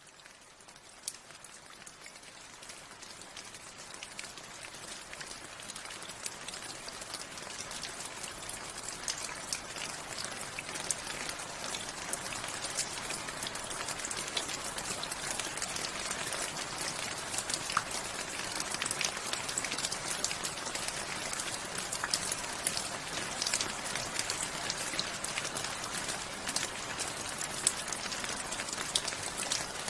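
Steady rain, with many individual raindrops ticking and pattering on a surface over a continuous hiss. It fades in over the first several seconds, then holds an even level.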